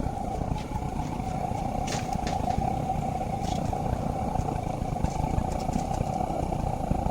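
Propane forge burner running steadily, a constant rushing hiss over a low rumble.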